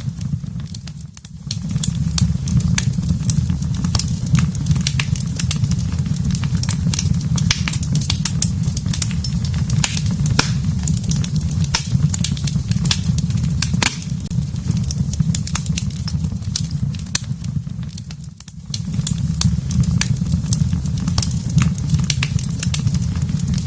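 Wood fire in a fireplace crackling, with many small sharp pops over a steady low rumble. The sound dips briefly about a second in and again near the end.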